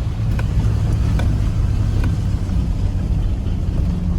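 Chevrolet Suburban driving, a steady low engine and road drone with a few faint clicks in the first two seconds.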